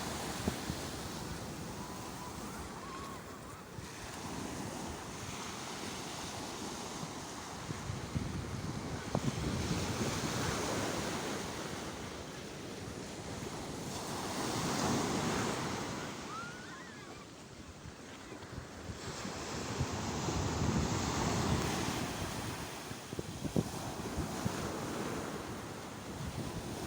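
Sea waves breaking and washing ashore, the surf swelling and fading every few seconds, with wind on the microphone.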